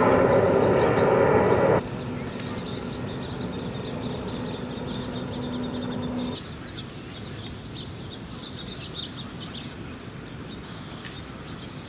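Small birds chirping again and again over outdoor background noise. A loud steady engine drone plays for the first couple of seconds and cuts off abruptly. A fainter steady hum cuts off about six seconds in.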